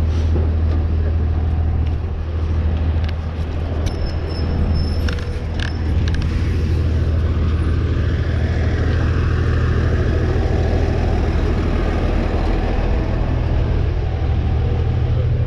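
Motor vehicle engine running with a steady low drone. A few short clicks and a brief high squeak come about four to six seconds in.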